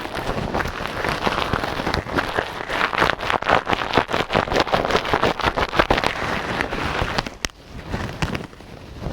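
Rubber-gloved hands rustling and scratching right on a microphone: a dense crackle with many small clicks, quieter for the last second and a half.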